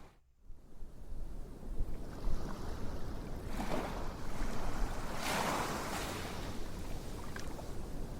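Steady rushing noise like surf washing in, with two swells in the middle. It drops out briefly right at the start.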